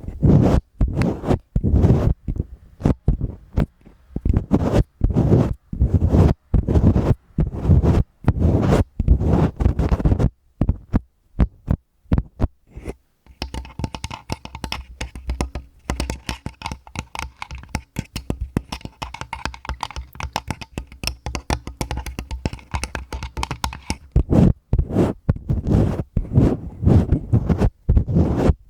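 Fingers scratching and rubbing directly on a Tascam recorder's microphone, in repeated strokes that each carry a heavy low thump. About halfway through the strokes merge into a faster, denser scratching, then break back into separate strokes near the end.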